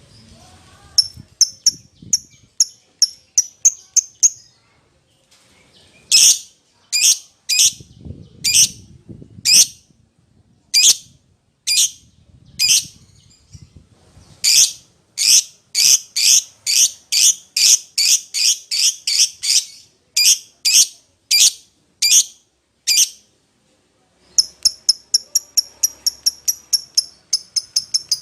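Lovebird calling: a quick run of short, shrill, high chirps, then a long series of loud sharp single calls that come about two a second at their fastest, then another rapid run of short chirps near the end.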